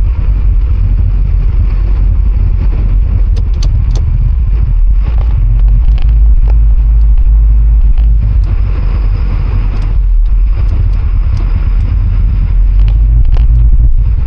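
Boat's engine running steadily underway: a loud, constant low rumble, with a few scattered faint clicks.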